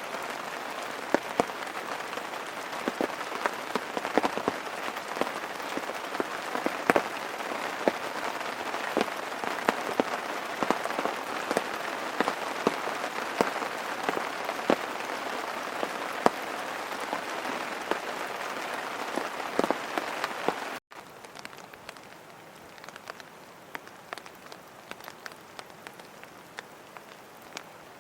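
Rain falling steadily, with many distinct drop hits through the hiss. About three-quarters of the way through it cuts suddenly to a quieter stretch of rain.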